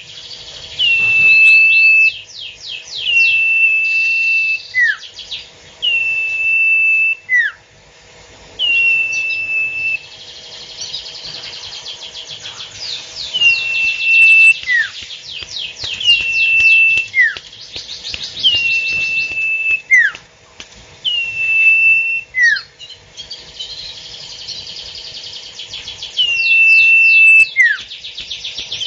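A songbird singing a phrase over and over, about every two seconds, with no pause: a held high whistle, then a quick falling note, with rapid chattering trills above them.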